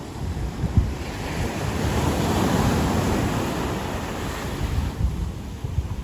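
Ocean waves breaking on a beach: a wave's wash swells about a second in, is fullest a couple of seconds later, and dies away near the end. Wind buffets the microphone with a low rumble throughout.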